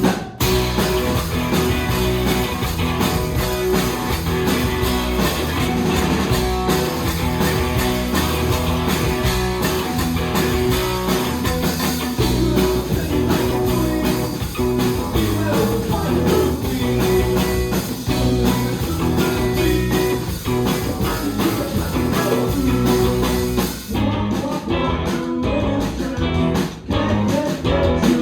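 Live indie rock band playing a song on stage: electric guitars over bass and drums, with some singing.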